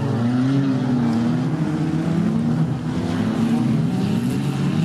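Several banger racing cars' engines revving and easing off together as they race round the oval track, their pitches rising and falling over one another.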